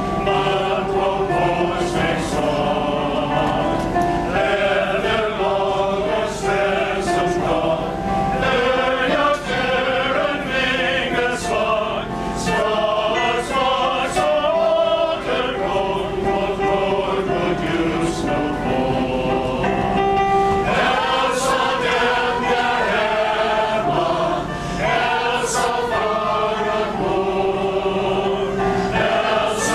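Male chorus singing in several-part harmony: a song about a sailor on deck who sees swallows flying toward Sweden.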